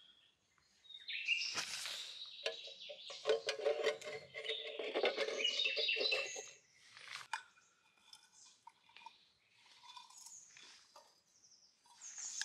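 Small birds chirping, with a dense run of sharp crackling clicks and knocks through the middle.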